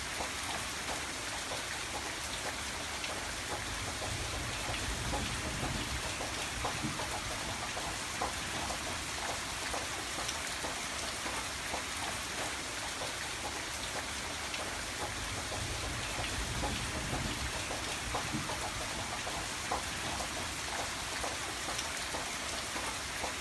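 Steady rain falling, with individual drops ticking on a surface and a low rumble swelling twice.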